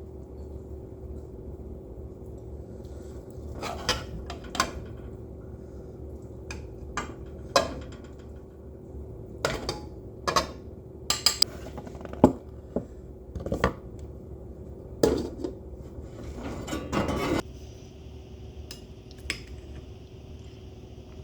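Metal utensils clinking, knocking and scraping against pots and dishes during cooking: a string of sharp clinks, with longer scrapes about fifteen and seventeen seconds in, over a steady low hum. A steady high hiss starts near the end.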